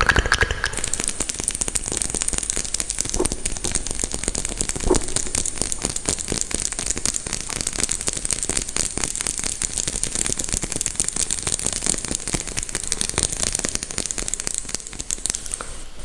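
Close-miked crackling ASMR trigger: a dense, continuous stream of tiny clicks with a bright hiss. It begins about a second in and stops just before the end.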